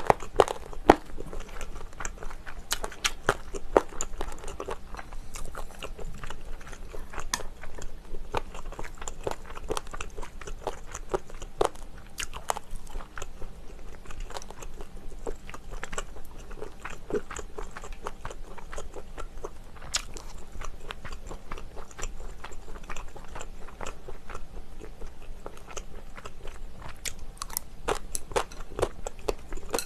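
Close-miked eating of spicy braised chicken: wet chewing and biting with many short, sharp mouth clicks and smacks.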